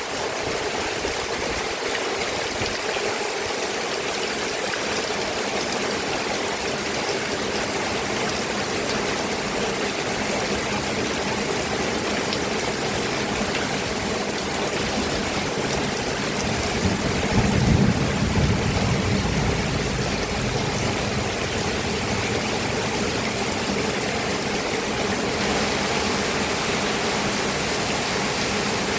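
Steady, heavy rain, with a brief low rumble a little past halfway through.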